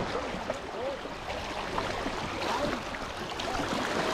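Fast-flowing river current rushing steadily, with faint distant voices in the background.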